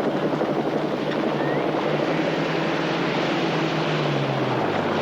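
Engine noise: a steady, fluttering drone whose low tone drops in pitch near the end.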